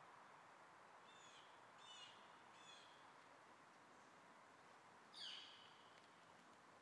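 Faint bird calls: three short chirps about a second apart, then a louder call that slides down in pitch about five seconds in, over a low steady hiss.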